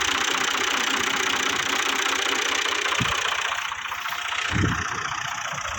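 A 480 tractor's engine running with a dense mechanical clatter. The noise eases a little about three and a half seconds in, with a short low thump just before and a stronger low thump about a second later.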